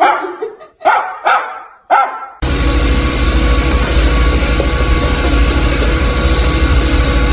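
A dog barks in short yips about four times. Then, about two and a half seconds in, the sound cuts abruptly to a loud, steady noise with a fast low throb.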